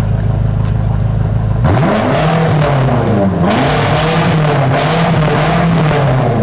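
BMW F90 M5 Competition's twin-turbo V8, with its secondary catalytic converters and balancer box deleted, idling, then revved up sharply about a second and a half in and held up high, the revs rising and falling, before easing back down at the end.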